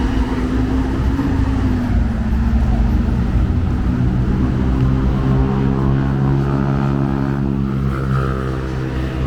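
A heavy motor vehicle's engine running close by, its pitch falling over the first couple of seconds and then holding steady, over low traffic rumble.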